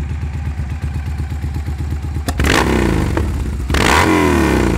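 2006 Victory Hammer's 100-cubic-inch V-twin running through a two-into-one exhaust, idling with an even pulse, then revved twice, about two seconds in and again near the end, each blip rising and falling back.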